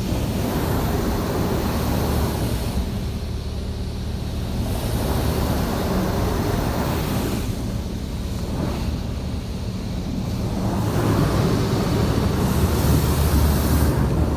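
High-pressure water jets of a PDQ LaserWash 360 touchless car wash blasting the car, heard from inside the cabin over a steady low rumble. The spray swells and fades several times as the arm sweeps around the car, loudest near the end.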